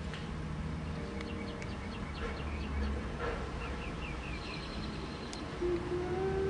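A small bird chirping again and again in short, quick notes over a steady low hum. About five and a half seconds in, a held musical note starts.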